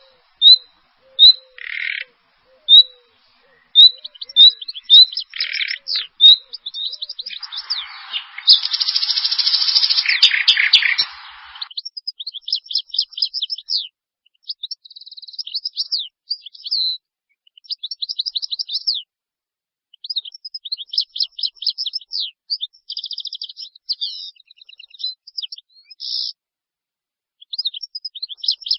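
Songbirds singing: sharp single chirps at first, then fast trills of quick falling notes repeated in phrases, with a harsh rasping call lasting about four seconds near the end of the first third.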